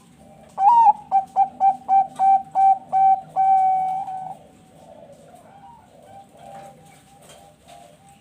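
Zebra dove (Bangkok perkutut) singing: an opening coo, a quick run of about eight short coos, then one long held coo ending about four seconds in. Other doves coo more softly behind it.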